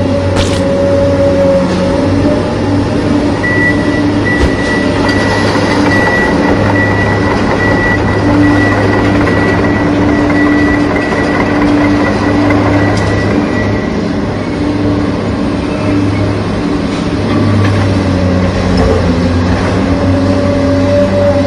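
A motor running steadily with a mechanical hum, and a thin high whine from about three seconds in until about fourteen seconds in.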